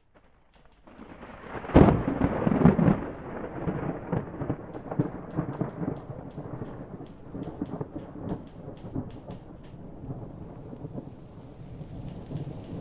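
Thunderstorm: rain falling steadily, with a loud thunderclap about two seconds in that rumbles on for a second or so and then dies down under the rain.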